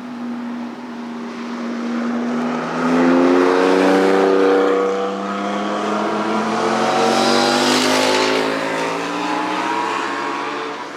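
Several motorcycles passing at speed on a race track one after another, their engine notes overlapping and sliding in pitch. The sound is loudest about three to five seconds in, with a rush of noise as one passes close around eight seconds in.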